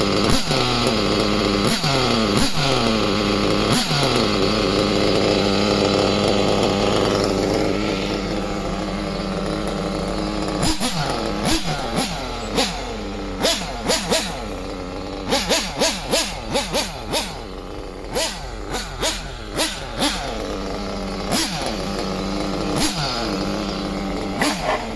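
Freshly overhauled engine being revved while it is tuned: a few sharp revs in the first seconds, each falling back to idle, then steadier running, and from about halfway on, a series of quick short throttle blips.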